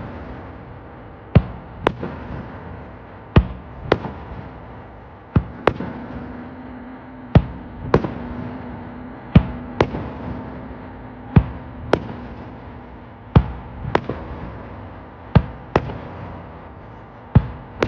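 Aerial fireworks shells bursting, sharp bangs mostly in pairs about every two seconds over a continuous rumbling background.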